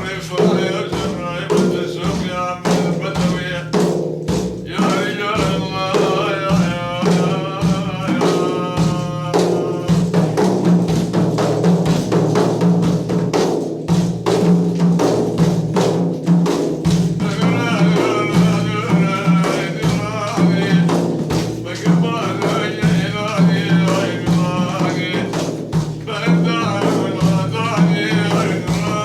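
Sufi madh: a man's voice singing a melismatic devotional line over a steady drone and continuous frame-drum beats, with the voice dropping out for stretches while the drums keep going.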